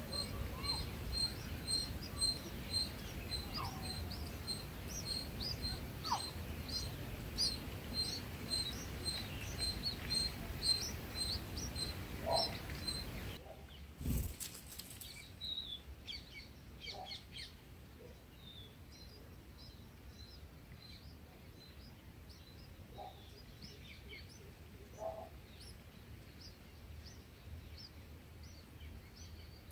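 Small birds chirping in short, high calls, with one regular chirp repeating about twice a second through the first half. About halfway through there is a brief thump, and the background hiss drops, leaving scattered chirps.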